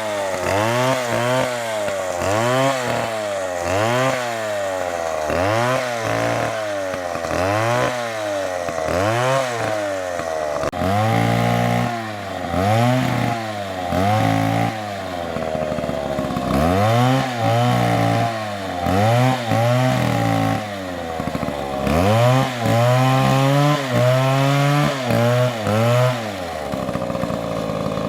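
Petrol chainsaw engine revving up and down about once a second, then held at high revs for a second or more at a time several times over.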